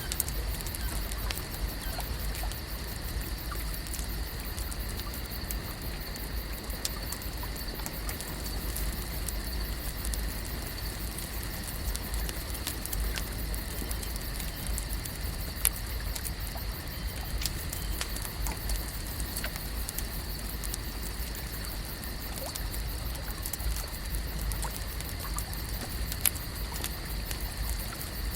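Lake ambience: a steady low rumble under a constant high hum, with scattered light clicks and patters throughout.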